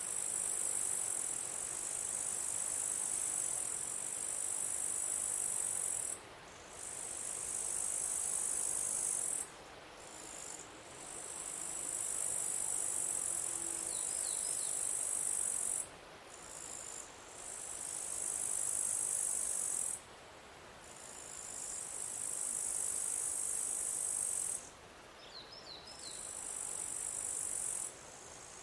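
High-pitched insect song, a continuous shrill buzz in bouts of about three to four seconds separated by short breaks, like a cicada or bush cricket calling. A few brief faint chirps come in near the end.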